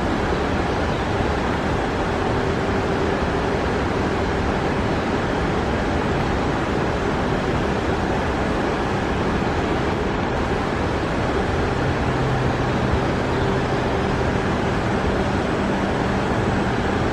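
Shinano Railway 115 series electric train running, a steady rumble with a faint hum over it; a deeper hum joins about twelve seconds in.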